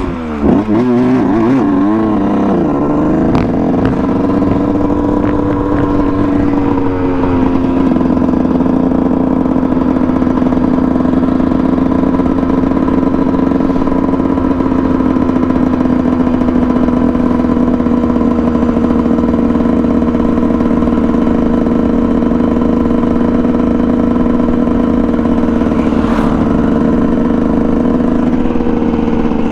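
Dirt bike engine revving up and down for the first few seconds, then running at a steady pitch.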